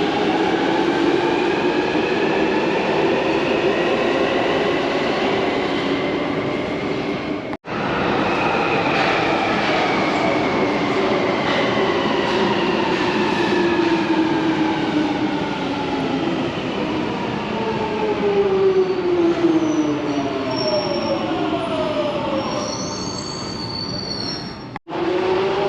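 Metro train running, its traction motors whining in several tones that glide down and up in pitch as it slows and accelerates, with a high wheel or brake squeal near the end. The sound cuts out briefly twice.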